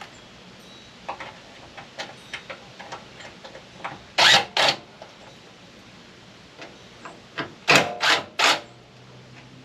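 Metal parts of a microwave being worked loose by hand: scattered small clicks, then two short, loud scrapes about four seconds in and three more in quick succession near the end.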